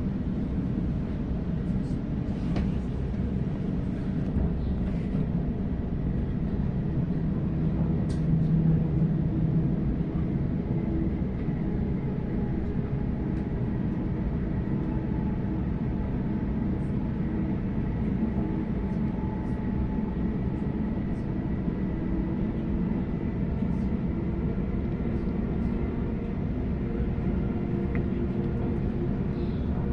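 Sydney Trains Waratah electric train running between stations, heard inside the carriage: a steady rumble of wheels on track with faint steady tones over it, swelling slightly about a third of the way in.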